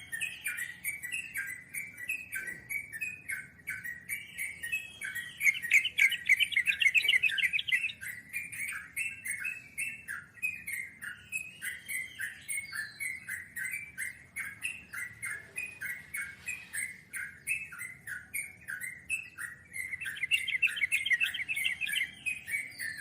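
Yellow-vented bulbul (trucukan) singing: a steady run of short chirping notes that twice breaks into long, fast rolling trills (ngeropel), louder, about five seconds in and again near the end.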